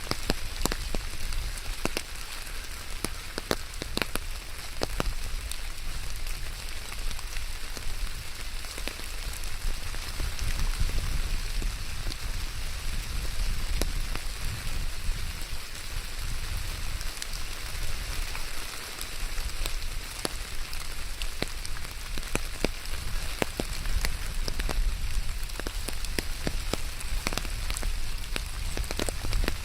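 Steady rain falling on surfaces, a constant hiss dotted with many sharp individual drop ticks, over a low rumble.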